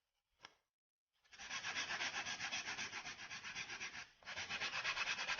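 A nail file rasping back and forth along the edge of a small decorative brick tile, rounding off its sharp edge. The fast, even strokes start about a second in, pause briefly near the end, then carry on.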